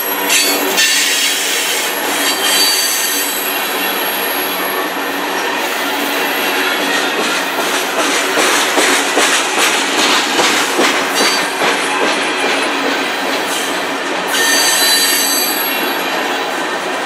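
Freight train tank cars rolling past close by: steel wheels on rail running steadily, with clicking over the rail joints in the middle stretch. High-pitched wheel squeal comes near the start and again about fifteen seconds in.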